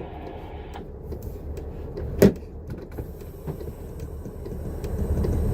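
Inside a moving transit bus: a steady low engine and road rumble, with one sharp knock about two seconds in and a few lighter rattles. The rumble grows a little louder near the end.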